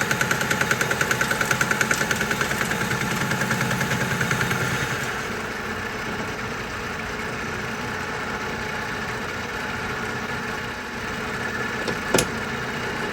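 Metal lathe boring out a hole in a steel plate with a boring bar, the cut pulsing about ten times a second. About five seconds in it drops to a quieter, steady running, with one sharp click near the end.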